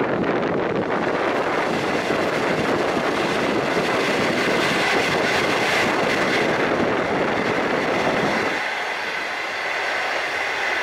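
Green-skin passenger train running through a tunnel: a loud, steady rumble of wheels on rail, joined about halfway by a steady high squeal from the wheels. Near the end the low rumble drops away and the sound turns thinner, as heard from inside the carriage.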